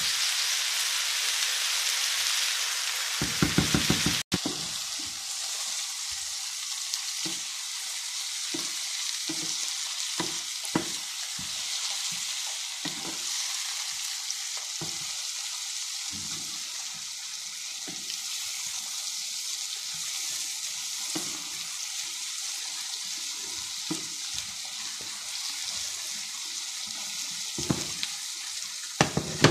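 Sliced mushrooms and spring onion sizzling steadily in a frying pan, stirred with a wooden spoon that knocks and scrapes against the pan at irregular intervals. For about the first four seconds, a spoon stirs spaghetti in a pot instead.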